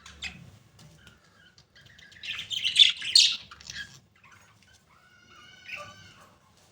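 Budgerigars chirping and chattering, loudest in a dense burst between about two and four seconds in, then a softer warbling call near the end.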